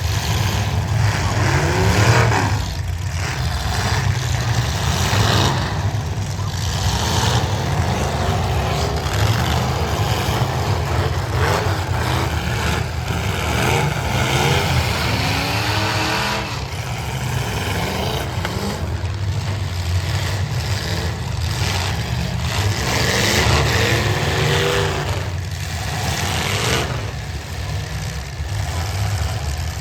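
Demolition derby cars' engines running and revving hard, several times, their pitch rising and falling over a constant low engine drone.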